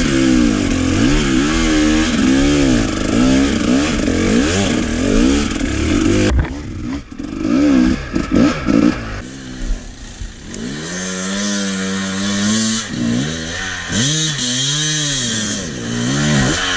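Two-stroke enduro motorcycle engine revving up and down as the throttle is opened and closed over and over. The revs break up and dip briefly in the middle, hold a steadier note for a couple of seconds, then rise and fall again toward the end.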